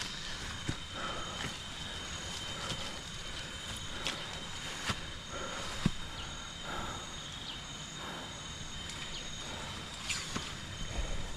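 Forest insects calling: a steady high buzz with a second, higher note pulsing on and off, over a steady background noise, with scattered light clicks and knocks.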